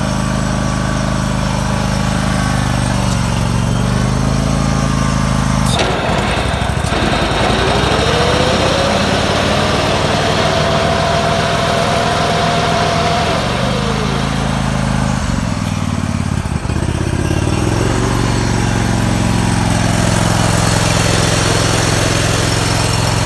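Scag Wildcat zero-turn mower's Kohler 27 hp engine running, its speed rising and falling several times. About six seconds in there is a sharp click, followed by a whine that rises and holds for several seconds before dropping away.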